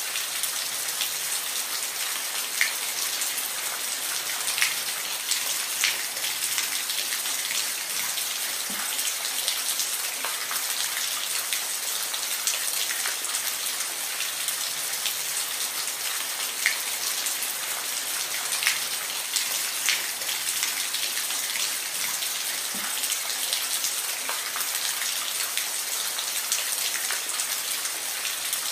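Steady rain falling on a surface, a constant hiss with scattered louder individual drops striking close by.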